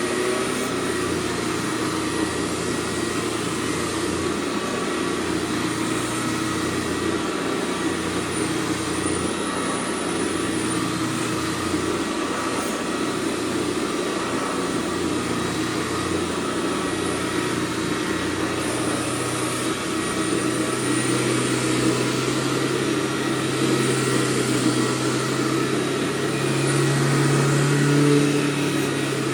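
Hoover Shoulder Vac Pro backpack vacuum running steadily while vacuuming with a T-21 tool on the wand: a continuous motor and airflow noise. A low hum grows louder in the last third.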